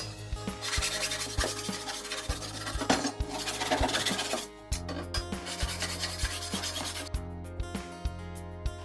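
Wood being sanded: a steady abrasive rubbing, heavier for the first four and a half seconds and then lighter.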